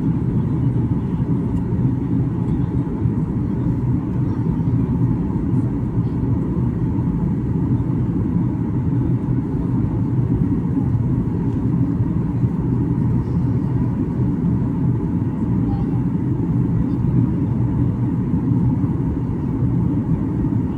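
Steady low rumble of a Boeing 737-800 airliner with CFM56-7B turbofan engines, holding an even level with a faint steady tone above it.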